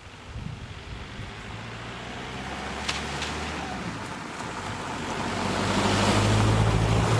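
Ford Galaxy's 1.9 TDI four-cylinder turbodiesel pulling the car along, with tyre and wind noise, growing louder from about five seconds in as it accelerates. Two short clicks come about three seconds in.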